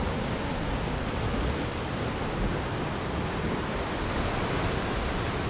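Steady rushing of wind and surf, with a fluttering low rumble of wind buffeting the microphone.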